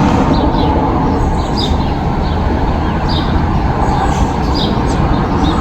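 Birds chirping in short, separate calls, about a dozen across a few seconds, over a loud steady low rumble.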